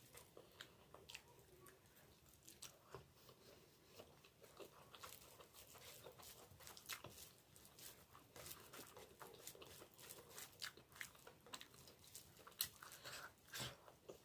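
Close-up chewing and biting of pork, with many irregular crisp crunches and wet mouth clicks.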